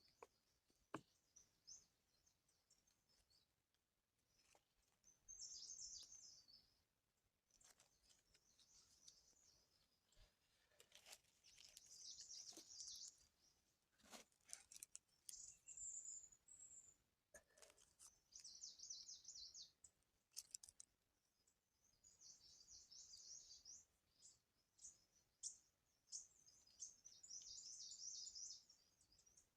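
Small bird chirping in faint, high-pitched twittering bursts every few seconds, with a few sharp clicks in between.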